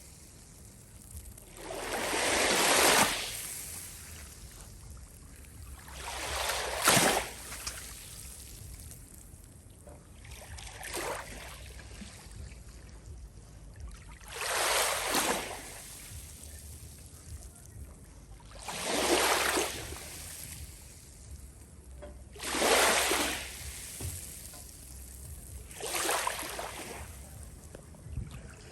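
Waves washing in, a surge of surf about every four seconds with a steady low rumble between them.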